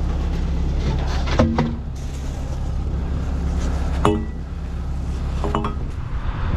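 An engine running steadily, with three sharp metal-on-metal clinks that ring briefly: about one and a half, four and five and a half seconds in.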